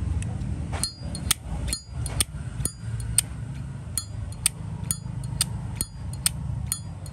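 Chrome Zippo lighter's lid flicked open and snapped shut again and again, about two sharp metallic clinks a second with a bright ring. This is the hinge and cam being worked to show that the cam spring is strong.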